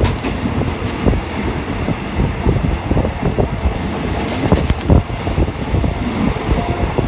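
A passenger train running, its wheels clattering over the track and the carriage rattling, heard from on board. A brief burst of sharper, higher metallic clatter comes a little past four seconds in.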